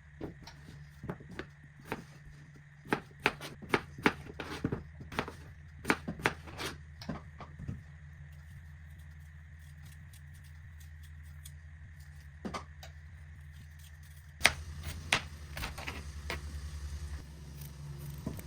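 Irregular clicks and knocks of kitchen utensils and food being handled during cooking, bunched in the first half and again a few times near the end, over a steady low hum.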